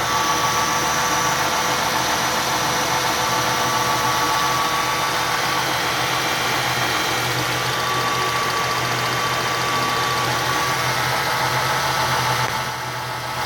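2000 Ford Mustang's 3.8-litre V6 idling steadily, smooth-running, with the noise of a small exhaust leak mixed in.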